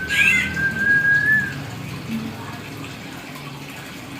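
Hill myna giving one long level whistle lasting about a second and a half, with a short higher note near its start, over a steady hiss.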